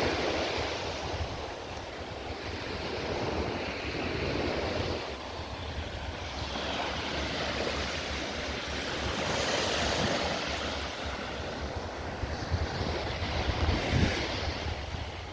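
Waves breaking and washing up on the beach, swelling and fading every few seconds, with wind buffeting the microphone in a low rumble and a few sharper gusts near the end.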